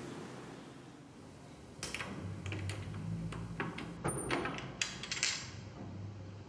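Door lock being worked by hand: a run of sharp metallic clicks and rattles starting about two seconds in and lasting a few seconds, as the lock fitting is turned.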